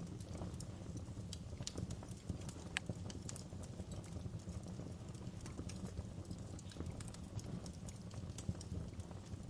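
Wood fire burning in a fireplace: a low steady rumble of flames with irregular sharp crackles and pops, one louder pop about three seconds in.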